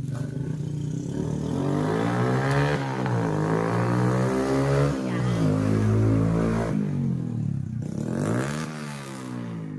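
A vehicle engine revving, its pitch rising and falling several times, loudest in the middle and easing off near the end.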